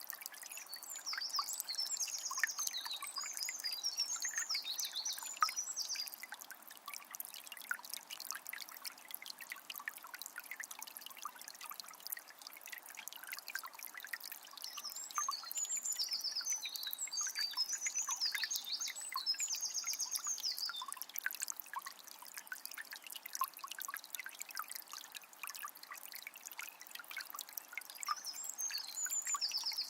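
A small spring's water trickling steadily with many small splashes. A songbird sings high, quick phrases of a few seconds each near the start, in the middle, and again near the end.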